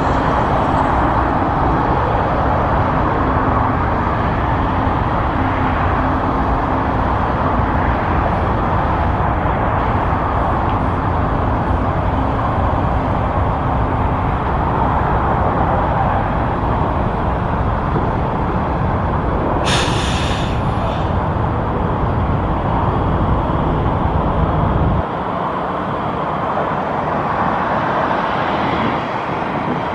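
Jet airliner engines producing a loud, steady rushing noise, with a brief crackle just under 20 seconds in; the deep rumble drops away suddenly about 25 seconds in.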